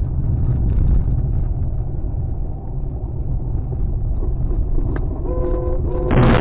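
Car driving with a steady low road and engine rumble. About five seconds in, a steady tone sounds briefly, and just before the end a sudden loud rush of noise breaks in.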